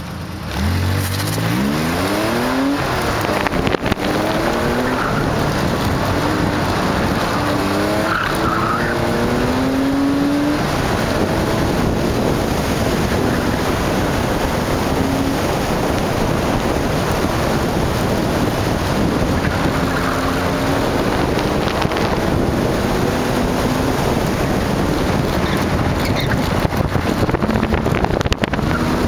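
Porsche 911SC's air-cooled flat-six engine accelerating hard from a standing start, the revs climbing and breaking at gear changes in the first ten seconds, then held high under loud wind and road noise.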